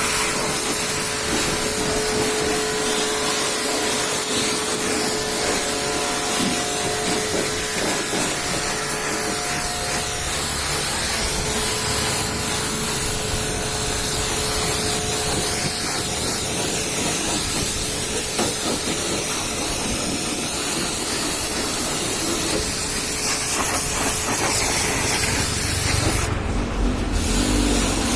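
High-pressure washer jet spraying water steadily against a truck's body, blasting off mud, with a faint steady hum under the hiss. The spray breaks off briefly near the end.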